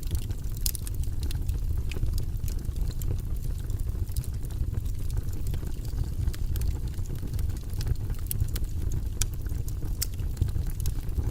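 Wood fire burning in a fireplace: a steady low rumble of flames with frequent small sharp crackles and pops at irregular moments.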